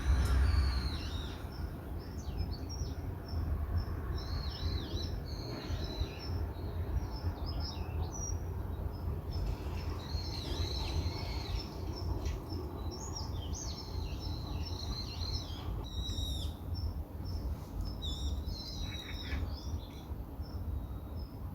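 Birds chirping and twittering in many short, high calls throughout, over a steady low rumble.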